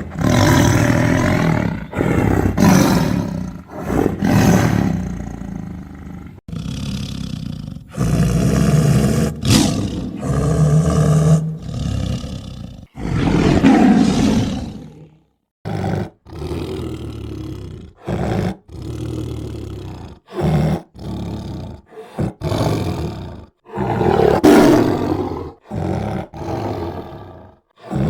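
Tiger roaring and growling repeatedly, in long, loud roars through the first half, then a run of shorter roars broken by sudden cuts to silence.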